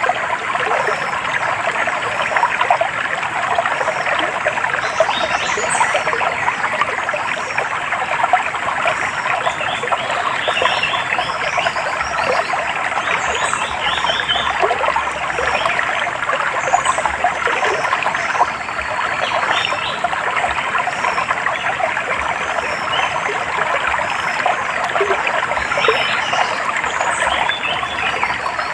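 A shallow stream trickling and babbling steadily over stones, with small birds chirping in short, scattered calls above the water.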